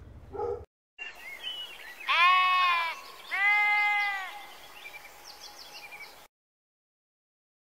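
Lamb bleating twice, two high calls of about a second each with a short pause between.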